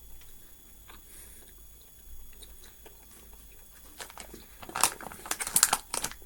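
Quiet chewing of a large gummy candy, then, from about two-thirds of the way in, loud crackling crinkles of the plastic candy bag being handled.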